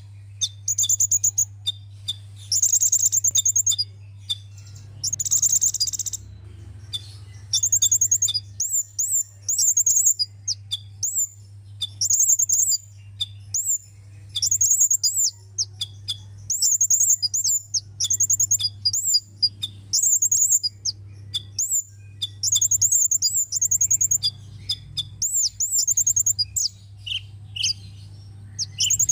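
Sunbird singing: quick phrases of short, sharp, high-pitched chirps and sweeping notes, repeated about once a second with brief gaps, over a steady low hum.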